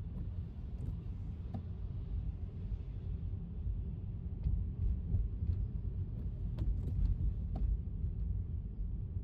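Low, steady road rumble of a car driving on wet pavement in the rain, with a few scattered light ticks over it.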